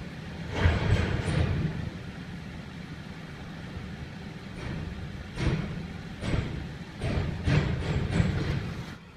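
Vehicle rumble broken by a series of irregular knocks and clatters, ending abruptly about nine seconds in.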